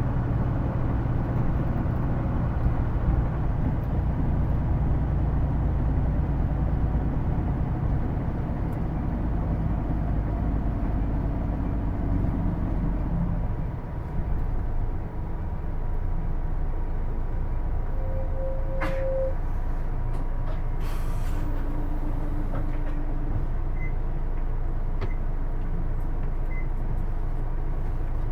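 Hino Blue Ribbon II city bus heard from inside the cabin, its engine and drivetrain running under way. There is a heavy low rumble with engine tones through the first half. About halfway through it dips briefly, then goes on steadier and lighter, with a short tone and a few light clicks.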